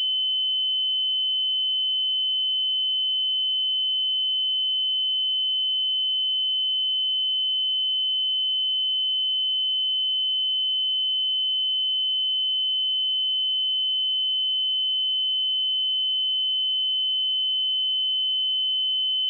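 A steady 3045 Hz sine-wave test tone: one pure, unbroken high-pitched note at constant level, used for checking speakers and headphones.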